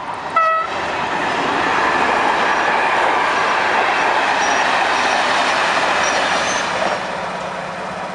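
A locomotive horn gives one short toot, then a passenger train passes close by at speed with a loud rush of wheel and wind noise for several seconds. Near the end the sound changes to the steady low hum of an idling diesel locomotive.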